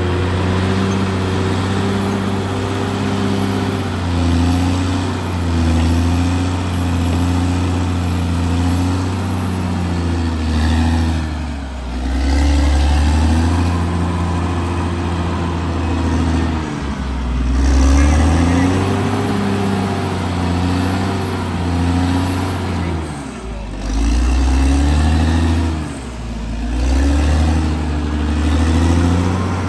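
Caterpillar D6R XL bulldozer's diesel engine running hard, its pitch repeatedly sagging and recovering as the load on the blade changes.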